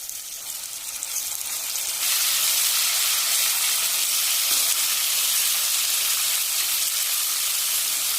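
Boiled chicken pieces frying in hot oil with curry leaves, garlic and green chillies: a steady sizzle that jumps louder about two seconds in.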